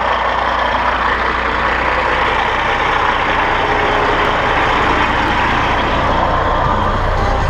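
Caterpillar C15 diesel engine of a dump truck running steadily.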